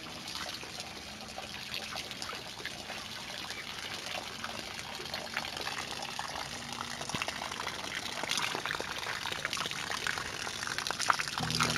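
Rain falling and dripping: many small drop ticks over an even hiss, growing a little louder over the stretch.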